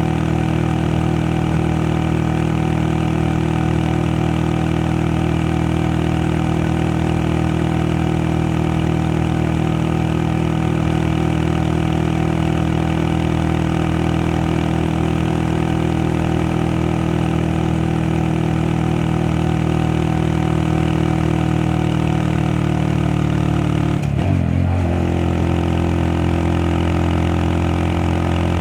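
Honda Monkey 125's single-cylinder engine running steadily while the sidecar rig rides along. About 24 seconds in the engine note breaks briefly and settles at a new pitch.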